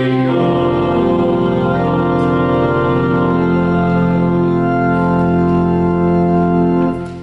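Organ playing slow held chords that change a few times, ending on a final chord released about seven seconds in.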